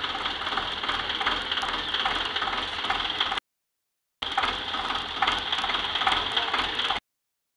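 Tractor engine running steadily with a rattle. The sound cuts out abruptly to silence twice, once in the middle and again near the end.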